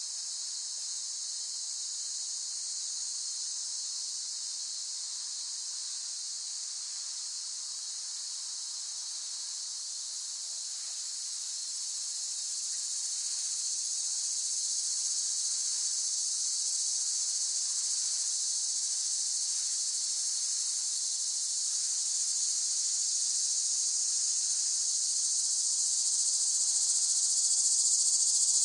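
Cicadas buzzing in a continuous high-pitched drone that swells louder about halfway through and again near the end.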